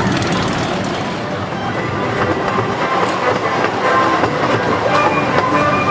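Casey Jr. Circus Train's cars running along the track, heard from aboard: a steady rattling clatter of wheels on the rails with rapid clicks.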